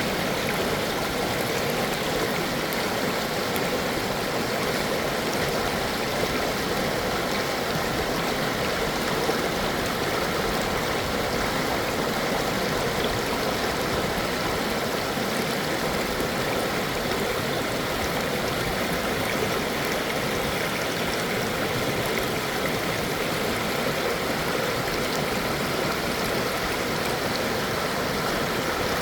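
Stream of water running steadily, an even unbroken rush with no change throughout.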